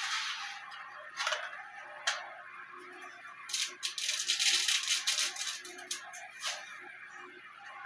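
Dry pasta being snapped in half by hand: a few single snaps, then a dense run of sharp cracks lasting about two seconds midway.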